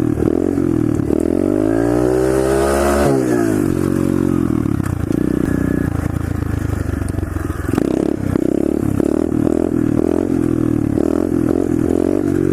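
SSR 125cc pit bike's single-cylinder engine being ridden, revving up and back down in the first few seconds, then running on with quick blips and changes of throttle.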